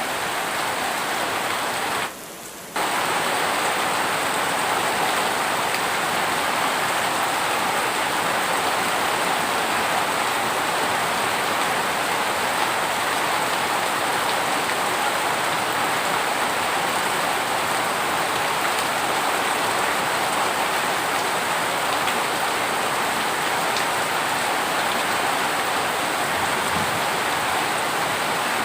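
Heavy rain falling steadily, an even dense hiss of drops on a surface. About two seconds in it drops away sharply for under a second, then carries on as before.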